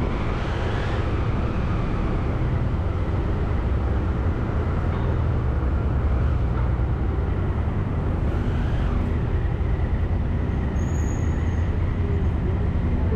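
Engine running steadily at low revs, a continuous low rumble.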